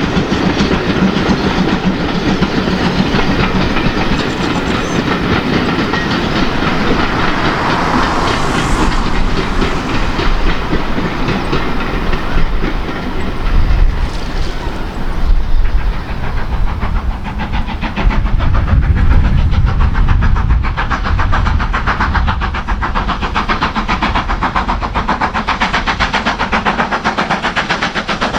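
A train passing close by, its wheels clicking rapidly over the rail joints as the coaches roll past, with a heavy rumble that surges and fades around the middle.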